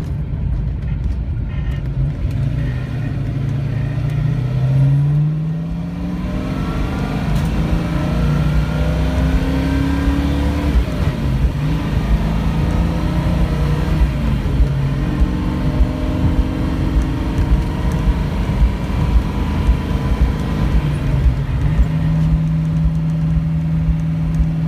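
A 1970 Ford Boss 302 Mustang's V8 heard from inside the car as it drives. The engine pitch climbs in several pulls, dropping back between them, then holds steady near the end.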